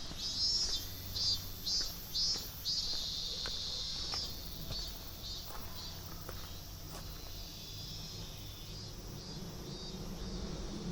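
Insects calling from the trailside: a high, buzzing trill in several pulses over the first three seconds, then steadier and fading away. Faint, regular footsteps on the path run under it.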